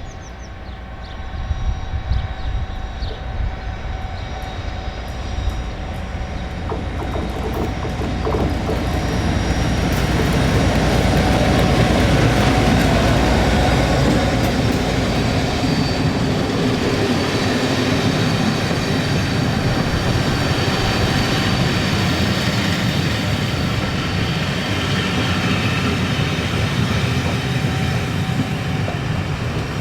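Diesel locomotive-hauled train passing close by: a low engine rumble builds to its loudest about twelve seconds in, then the steady rolling of wheels on the rails as the train goes by.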